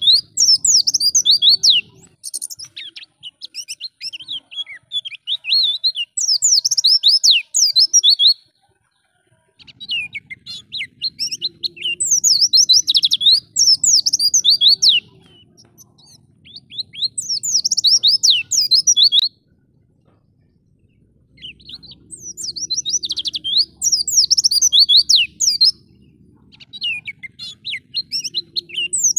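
White-eye (pleci) singing a fast, high twittering song in long bouts, broken by two short pauses about nine and twenty seconds in.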